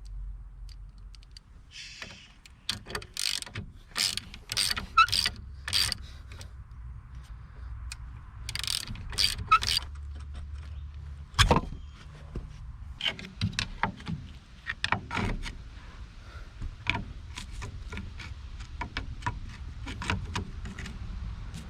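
Hand tools clicking and clanking on metal as a car's front brake caliper is unbolted, in irregular clusters with one sharper knock about halfway through.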